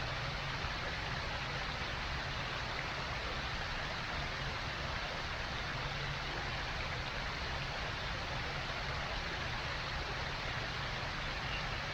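Steady rushing noise that holds even throughout.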